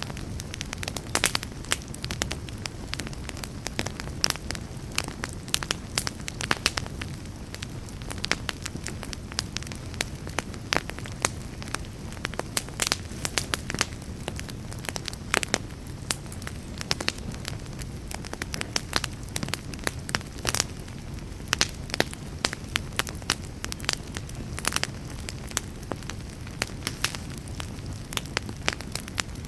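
Wood campfire crackling, with many irregular sharp pops and snaps over a steady low rush.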